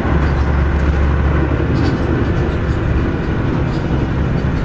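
A Mitsubishi Fuso KC-MP317M New Aerostar bus's engine and drivetrain running steadily under way, heard inside the cabin as a deep continuous rumble with road noise and a few faint light rattles.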